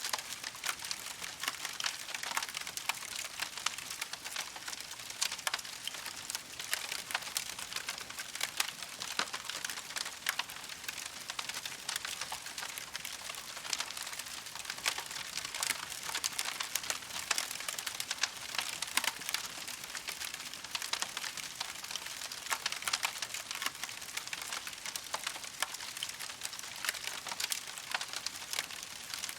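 Campfire burning with a steady, dense crackle of many small pops and snaps.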